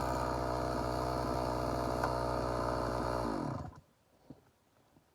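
An engine idling steadily, then switched off about three and a half seconds in, its note sinking briefly as it dies, followed by a few faint clicks.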